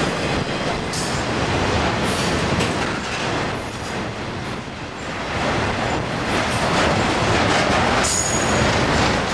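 Double-stack container train's well cars rolling past at close range: a steady rumble of steel wheels on the rails with clicks over the joints, and a few short high-pitched wheel squeaks, one about eight seconds in.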